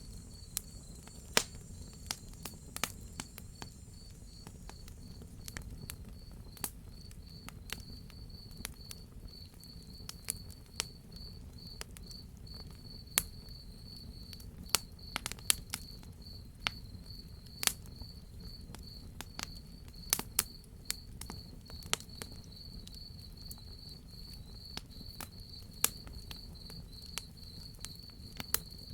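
A cricket chirping in a steady, fast pulsed high tone, over a wood fire crackling with scattered sharp pops and a low, steady rumble.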